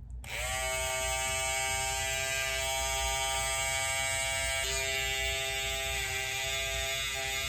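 Electric hair clippers switching on, the motor's buzz rising in pitch for a moment and then running steadily, with a slight change in pitch about halfway through.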